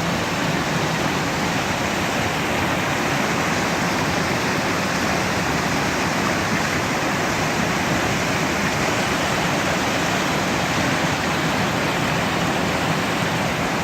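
Waterfall running, a steady rush of falling water with no breaks.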